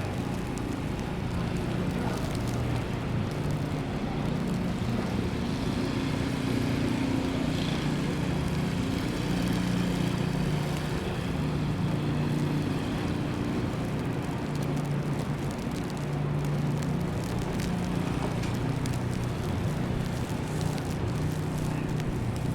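Steady city street ambience: a low, continuous rumble of traffic and engines with a general hiss of the street, no single event standing out.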